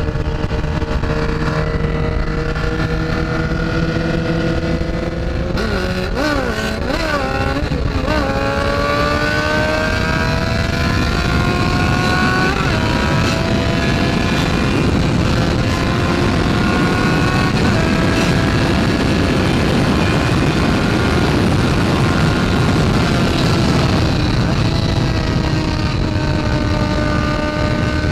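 Motorcycle engine heard from the rider's seat, pulling hard up through the gears. After a few quick blips about six seconds in, the pitch climbs steadily within each gear and drops at two upshifts around the middle, with wind rush growing as the speed builds.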